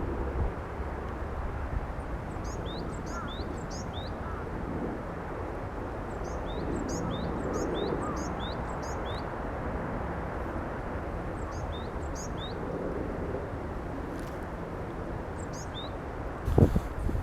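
A bird's high, thin chirps, repeated in quick runs of two to four, over steady outdoor background noise. A brief loud knock comes near the end.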